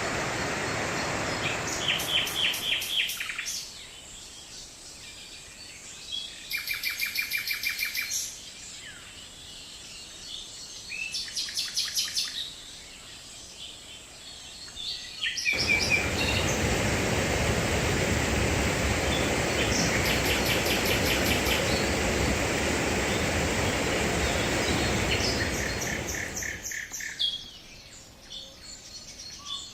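Songbirds singing short, rapidly repeated trills, over the steady rush of water falling over the Bernesga river's cascade. The water sound is loud for the first few seconds, drops away abruptly, and comes back just as abruptly from about halfway through until a few seconds before the end.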